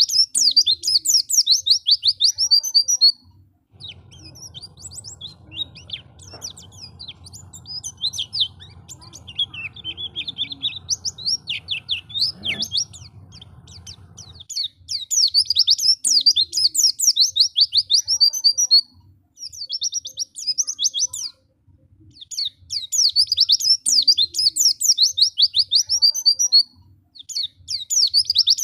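White-eye (pleci) singing: phrases of several seconds of rapid, high-pitched chattering, each made of quick falling notes, broken by short pauses. About four seconds in the song gives way to a quieter stretch of softer, lower notes over a low hum, and the full chattering returns near the halfway point.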